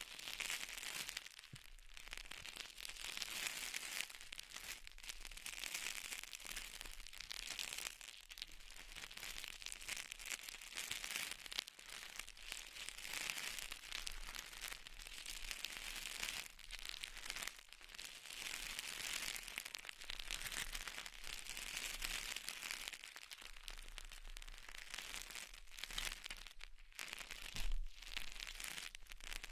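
Close-miked crackling and rustling of an ASMR trigger being handled, a fine crisp hiss that swells and fades every two to three seconds, with a few sharper clicks.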